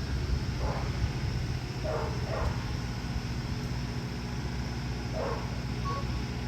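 A dog barks four times, once, then twice close together, then once more, over a steady low engine rumble.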